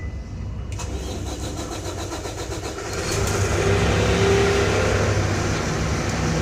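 Pierce ladder truck's diesel engine being started: the starter cranks for about two seconds, the engine catches about three seconds in, and it settles into a steady idle.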